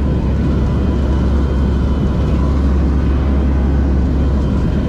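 Cabin noise inside a Lockheed WP-3D Orion, its four Allison T56 turboprop engines making a loud, steady, deep drone with a faint higher hum over it.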